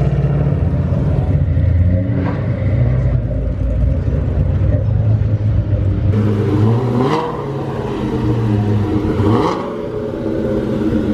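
Mustang V8 engines idling with a choppy, lopey idle and revving briefly as cars pull away, with throttle blips about seven and nine and a half seconds in.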